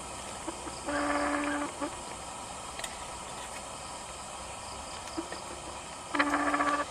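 Two buzzy animal calls, each held on one steady pitch for under a second, about five seconds apart, over a steady background hiss.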